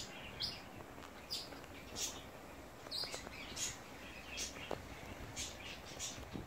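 Small birds chirping: short, high chirps repeating a little more than once a second over faint outdoor background noise.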